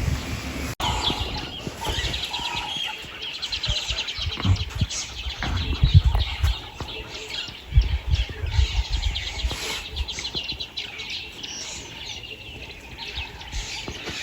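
Small birds chirping in quick runs of repeated high notes, with wind gusting on the microphone.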